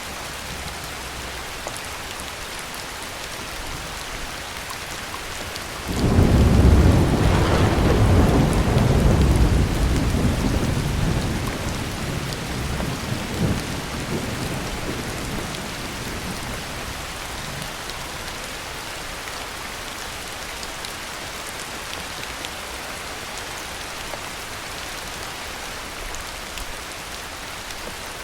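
Heavy rain falling steadily. About six seconds in, a clap of thunder breaks in suddenly and rolls for several seconds, deep and rumbling, then fades back under the rain.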